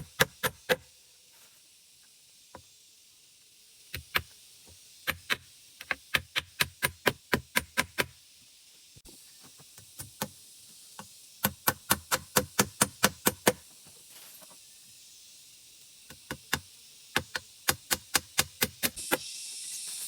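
Repeated sharp knocks in quick runs of about four to five a second, broken by pauses of a second or more. A steady hiss comes up near the end.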